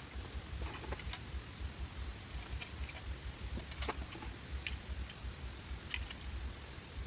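Steady rain with scattered sharp taps and clicks, about one or two a second, over a low rumble.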